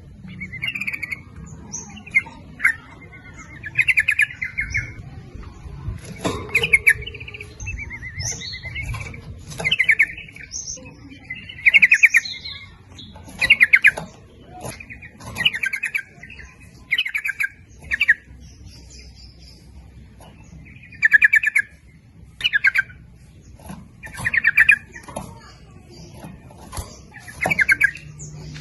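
Yellow-vented bulbul (trucuk) singing: short bubbly phrases of quick notes repeated every second or two, with a pause of a few seconds about two-thirds through. A faint low hum runs underneath.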